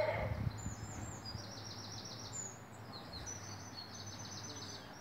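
Small birds chirping in quick runs of high repeated notes, twice, over a faint low steady hum.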